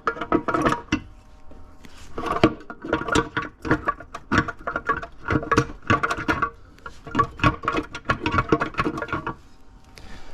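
Aluminium transmission case being slid down over the gear shafts, giving a string of light, irregular metallic knocks and taps with a short ring after each.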